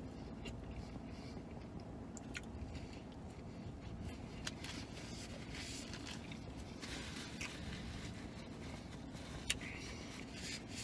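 A man chewing a mouthful of burger, with scattered faint clicks and a soft rustle of a paper napkin near the end, over a steady low hum in a truck cab.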